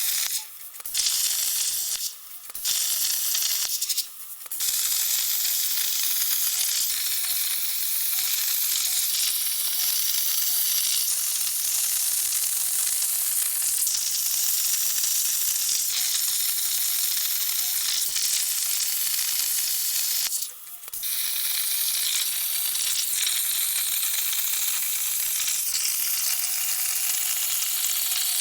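CNC plasma torch cutting steel plate: a steady hissing arc that stops briefly three times in the first few seconds and once more about two-thirds of the way through.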